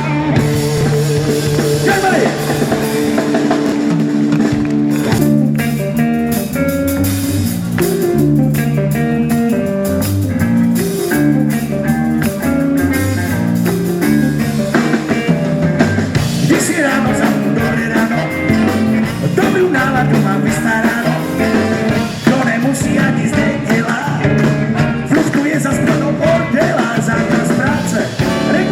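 Live rock and roll band playing an instrumental passage with electric guitar and drum kit, and no lead vocal line.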